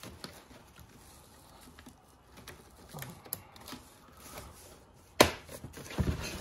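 Packaging being handled and cut away from a boxed folding electric bike: scattered small clicks and rustles, with one sharp snap about five seconds in.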